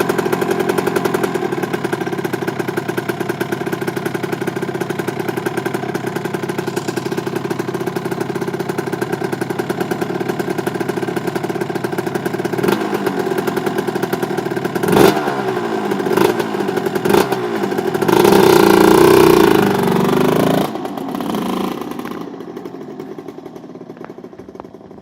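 Suzuki RM 125 two-stroke single-cylinder motocross engine idling steadily, warm from a cold start. Past halfway it takes a few short throttle blips, then a longer rev, after which the engine note falls away and goes quiet near the end.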